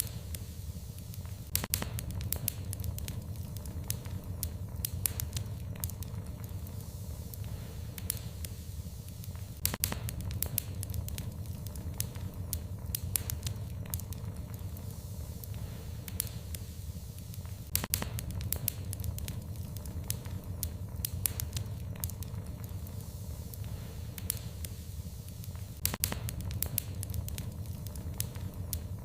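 Fire in a fireplace crackling, with irregular sharp pops and snaps, some in quick clusters, over a steady low rumble of the flames.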